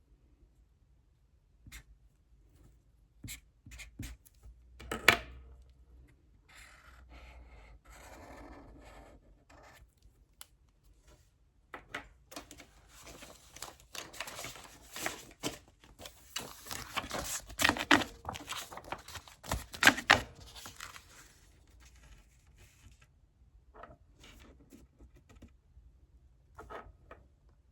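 Paper handling and writing on paper: scattered taps and clicks, a stretch of rustling, then a long spell of dense scratching with a couple of sharp knocks.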